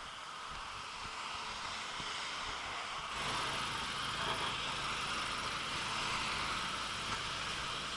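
Road traffic with a steady hiss; about three seconds in, a motor vehicle's engine rumble rises and holds as it draws near and passes.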